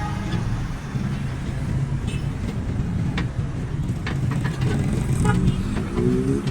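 Motor vehicle engine running steadily, with a few sharp clicks; near the end an engine rises in pitch as it speeds up.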